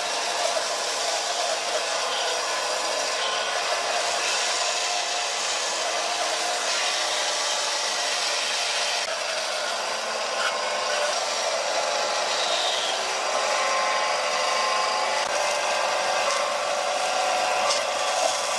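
A power tool running steadily while working wood, a continuous hissing noise without a clear pitch.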